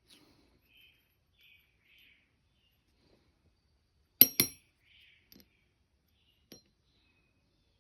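Two sharp metallic clinks close together about four seconds in, each with a brief ringing, then a fainter click near the end, with faint handling noises between: small steel diesel fuel-injector parts being handled and set down during disassembly.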